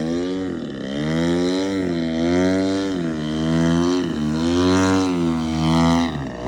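Engine of an RC Zivko Edge 540 model aerobatic plane running, its pitch swinging up and down over and over. The pitch dips sharply about a second in, about four seconds in and near the end.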